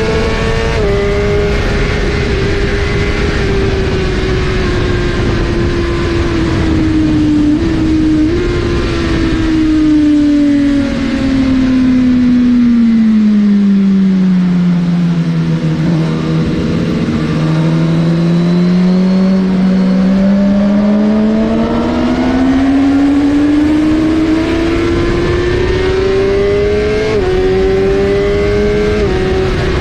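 Suzuki GSX-R1000R's inline-four engine at speed on a race track. Its pitch falls slowly as the bike slows, with two quick blips of revs around eight seconds in, bottoms out about halfway through, then climbs steadily as it accelerates again, with short dips near the end from gear changes. A steady rushing noise runs beneath it.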